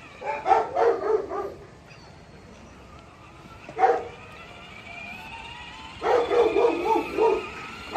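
An animal calling in two runs of quick, pitched barks about a second and a half long, with a single bark between them.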